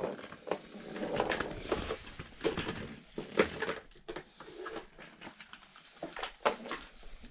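Small plastic toys being handled, giving scattered clicks and knocks.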